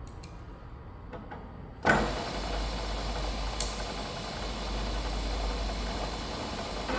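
A machine tool's electric motor starts suddenly about two seconds in and then runs steadily with a low hum, with one short click partway through.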